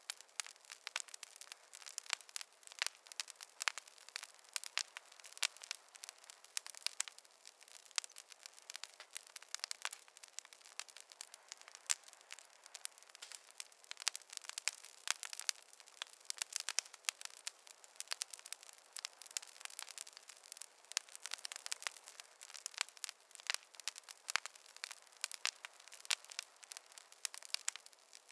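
Wood fire crackling: a dense, irregular run of sharp pops and snaps over a faint hiss, with no low rumble.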